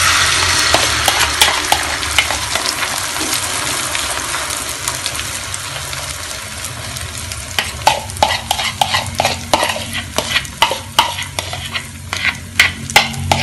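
Egg mixture with shredded chicken and sausage poured into hot oil in a non-stick frying pan, sizzling loudest at the start and easing into a steady sizzle. From about eight seconds in, a spoon clinks and scrapes repeatedly as the last of the mixture is scraped out of the bowl and spread.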